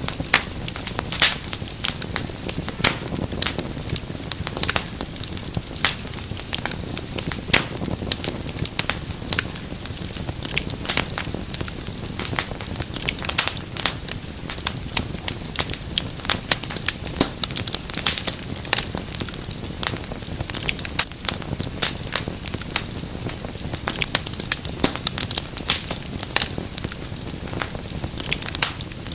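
Wood fire crackling in a fireplace: dense, irregular sharp pops and snaps over a low, steady rumble of flame.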